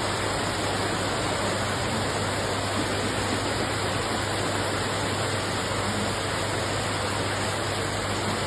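Steady, even rushing noise of floodwater, with a low steady hum beneath it.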